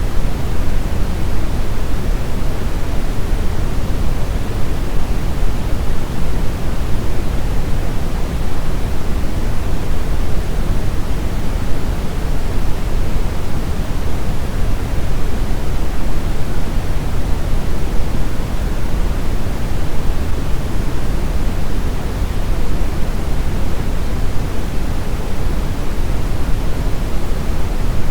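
Brown noise: a steady, unchanging deep rushing hiss, strongest in the bass and fading toward the treble.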